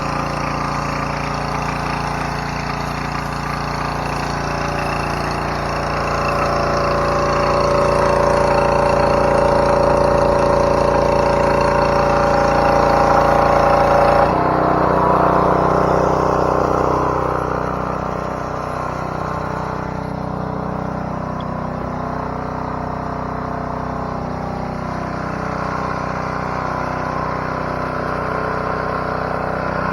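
Gas-engine pressure washer running steadily. It grows louder for a stretch, and about halfway through its note changes abruptly.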